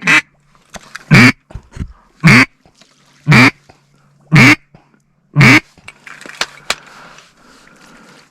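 A duck call blown in loud single quacks, six of them about a second apart, calling back ducks that are circling the decoys. The calling stops about two-thirds of the way in, leaving faint rustling and clicks.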